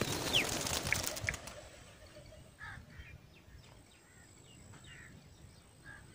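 Small birds chirping in short calls, with a loud rush of noise full of quick strokes during the first second and a half, then only faint scattered chirps and a faint steady high-pitched tone.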